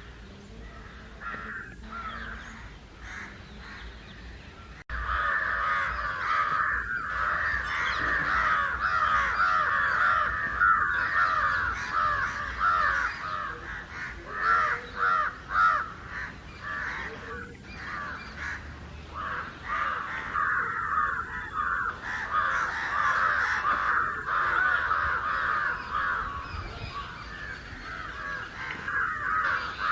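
Many crows cawing together in a constant, overlapping chorus. Fainter for the first five seconds, then abruptly much louder.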